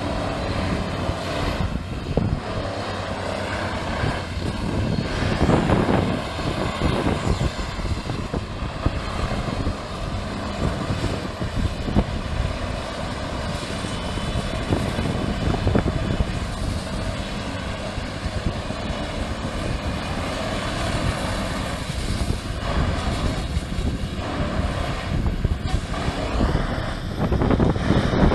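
A large engine or machine running steadily.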